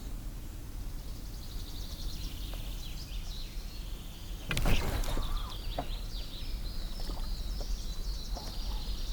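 Small birds chirping repeatedly over a low steady rumble, with one brief loud rushing burst a little past the middle.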